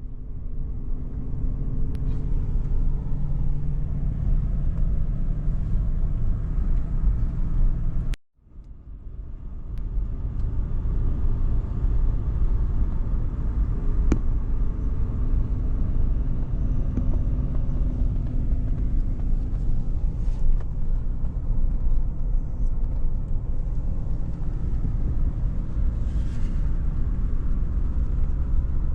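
Steady low road and engine rumble of a moving car. It drops out briefly about eight seconds in and fades back.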